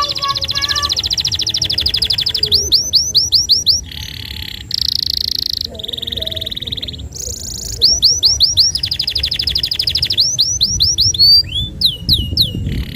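Domestic canary singing a long, unbroken song in a high pitch: fast rolling trills of repeated notes, runs of quick rising sweeps, and short harsh buzzy phrases.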